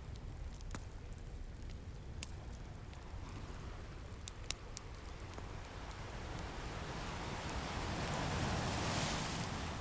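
Wood fire crackling with a few sharp pops, over a steady low surf rumble; an ocean wave builds and washes in near the end, then begins to ebb.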